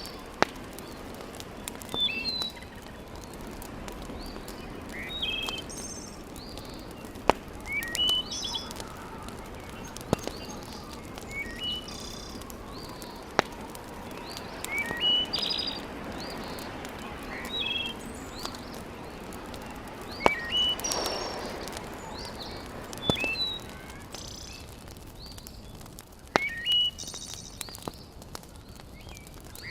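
A bird repeating a short rising-and-falling call about every three seconds. Between the calls, a wood fire in a fireplace crackles with a low hiss and a few sharp pops, and the pops are the loudest moments.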